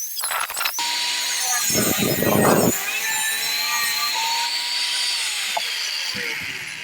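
Angle grinder cutting through a steel chimney pipe: a loud, steady cutting rush over the tool's whine, heavier for a moment about two seconds in. About five seconds in the tool is switched off and its whine falls in pitch as the disc spins down.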